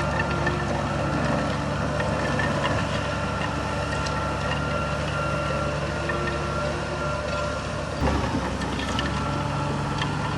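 Heavy diesel engine of earthmoving machinery, a bulldozer or dump truck, running steadily with a few light clanks; the sound shifts suddenly about eight seconds in and the engine carries on.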